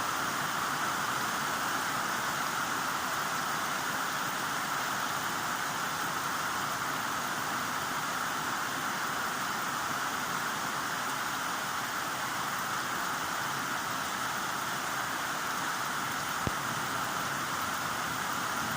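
Heavy rain falling steadily, an even hiss with no change in intensity. A single brief click near the end.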